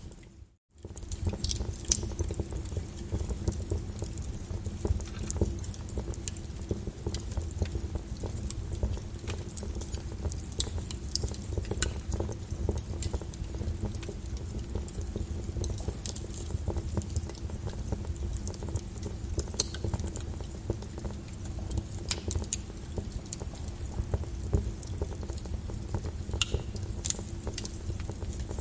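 Wood fire in a fireplace crackling steadily, with a low rumble of burning and frequent sharp irregular pops and snaps. The sound drops out briefly just after the start, then resumes.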